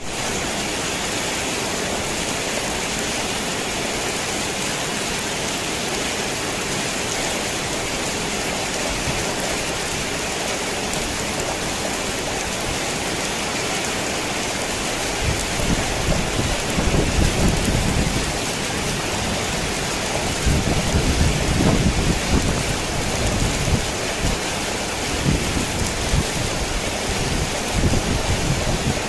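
Heavy rain drumming steadily on a tin roof, with rolls of thunder rumbling in about halfway through and again later on.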